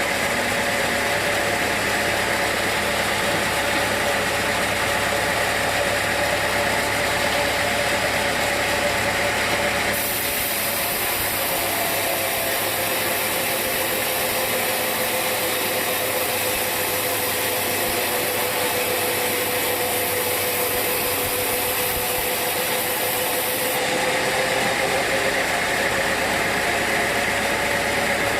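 Sawmill machinery running steadily with a constant hum and a held mid-pitched tone. From about ten seconds in until a few seconds before the end, the low rumble drops away and a high hiss comes up, then the earlier sound returns.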